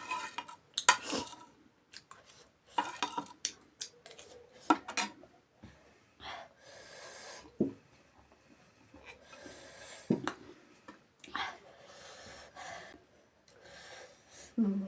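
Close-up mukbang eating sounds: irregular chewing and crunching with sharp clicks of cutlery and dishes.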